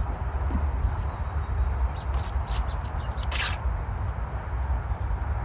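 Wind rumbling on the microphone, with leafy rustling and a few crisp crackles from sweet corn plants being handled for harvest. Faint bird chirps sound high above.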